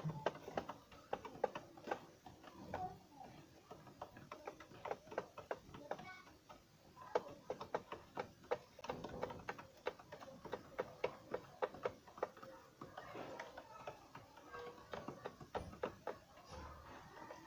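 Pet doves: many quick, irregular taps and clicks, several a second, with soft bird calls mixed in.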